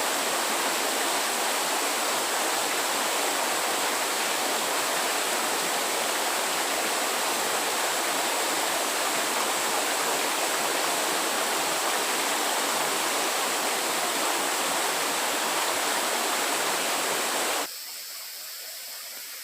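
Steady rushing of running water, dropping suddenly to a quieter hiss near the end.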